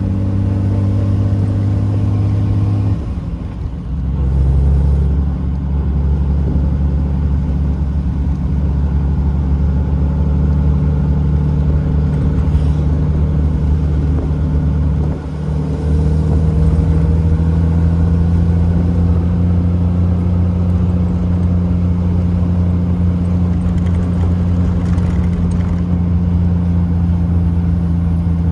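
1974 Triumph TR6's 2.5-litre straight-six engine pulling the car under way. The engine note dips briefly twice, about three seconds in and again about halfway, like manual gear changes, and then runs steadily.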